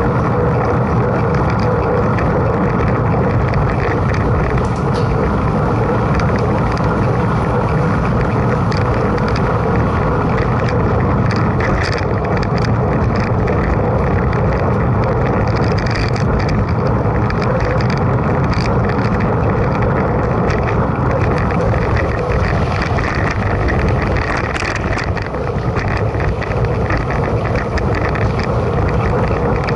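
Mountain bike being ridden: steady wind noise on the camera microphone over a rolling tyre noise, with scattered small ticks.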